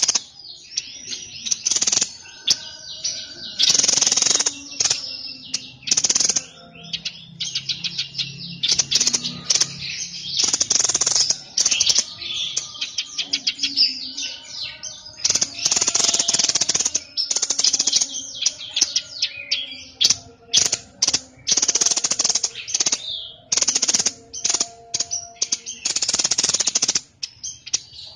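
Songbird of the kind Indonesian keepers call 'burung sniper' singing loud, high, rapid rattling phrases in repeated bursts of a second or two, with short pauses between them.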